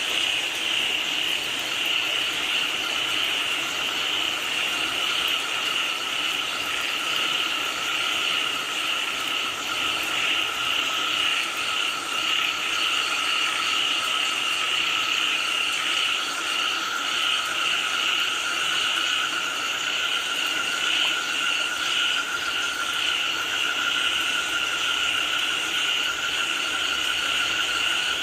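A dense chorus of many frogs calling at once, unbroken, in a higher and a lower pitch band, over the steady hiss of falling rain.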